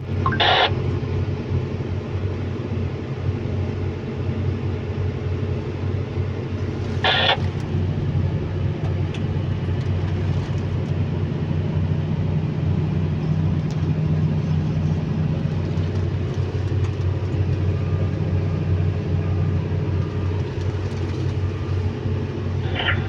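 Excavator's diesel engine running steadily with a low, even drone. Two short high-pitched bursts cut through it, one right at the start and one about seven seconds in.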